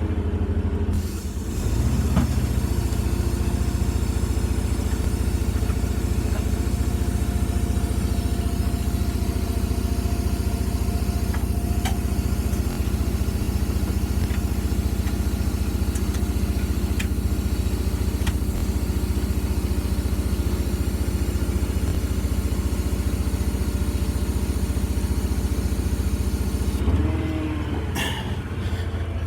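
Steady drone of a lifting machine's motor as the vehicle body is slowly raised off its engine and transmission. It settles in about a second and a half in and shifts near the end with a brief change in pitch and a slight drop in level.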